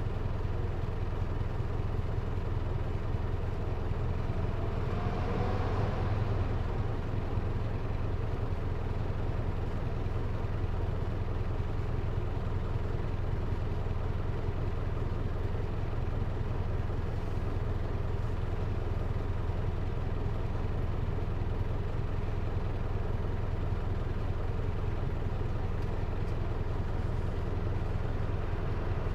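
Hino Liesse microbus's J05C four-cylinder diesel engine running steadily, heard from inside the cabin as a constant low rumble. A faint rising whine comes in about five seconds in.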